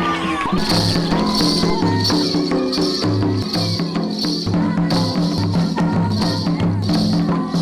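Percussion-led folk music: a steady low drum beat with shaken rattles sounding about twice a second.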